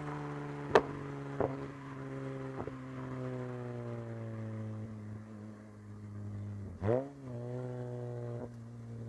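Toyota 2GR-FE 3.5-litre V6 idling steadily, with a few sharp clicks in the first three seconds. About seven seconds in it gives one quick throttle blip, the revs rising and falling straight back to idle.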